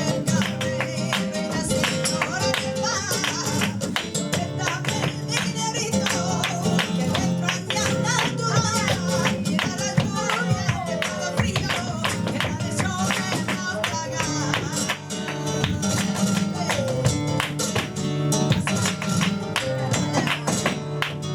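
Live flamenco tangos: flamenco guitar playing with a cante singer's gliding vocal lines, over dense, sharp percussive clicks.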